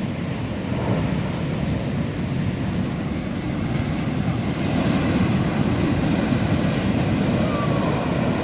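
Atlantic surf rushing in over the shore, with wind rumbling on the microphone. A wave surges in about four and a half seconds in, and the hiss grows louder and brighter.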